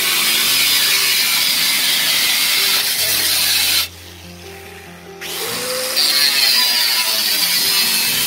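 A power tool cutting into a metal stockpot, giving a loud, high-pitched hiss. It stops for about a second and a half just before the middle, then starts up again. Background music plays under it.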